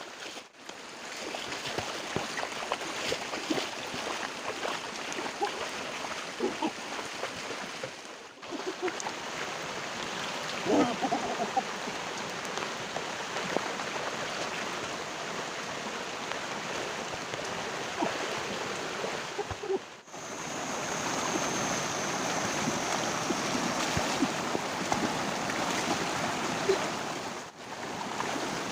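Flowing river water rushing steadily, with scattered small splashes and knocks. It breaks off briefly three times.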